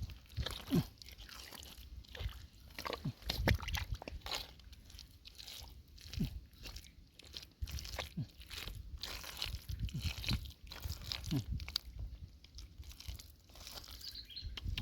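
Hands digging through wet mud for clams: irregular crunching and clicking with low, dull thuds.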